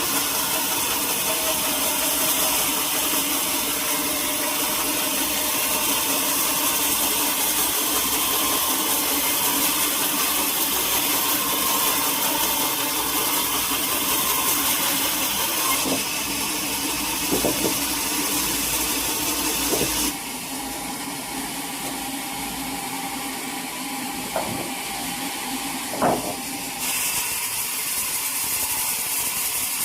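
Sawmill machinery running steadily with an engine hum and a high hiss. The sound changes abruptly a few times, and a handful of sharp knocks fall in the second half.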